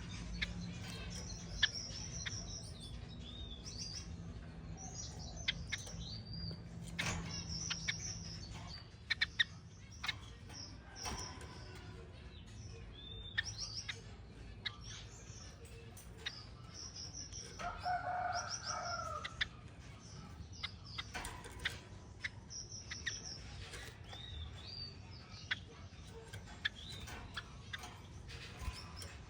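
Pin-tailed parrotfinches chirping in an aviary: many short, high calls in quick succession, with wing flutters and small sharp clicks. About eighteen seconds in, a lower call lasts a second or so.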